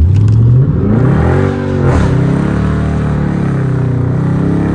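Dodge Charger R/T's 5.7-litre HEMI V8 at full throttle from a sudden launch. The revs climb fast, drop at an upshift about two seconds in, then pull again.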